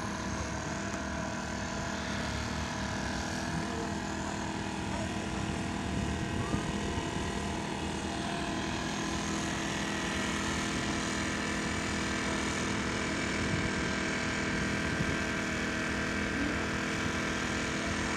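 Car engine idling: a steady drone that holds the same pitch throughout.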